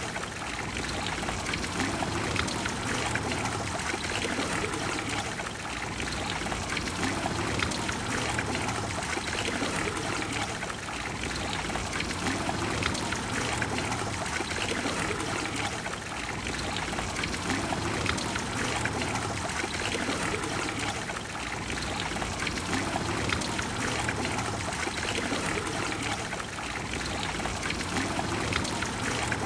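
Water of the Trevi Fountain flowing and splashing, a steady, even rush of water.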